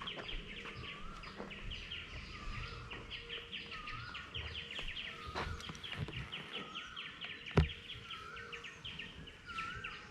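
Birds calling: a short wavering note repeats about once a second over fast, steady high chirping. A single sharp click comes about seven and a half seconds in.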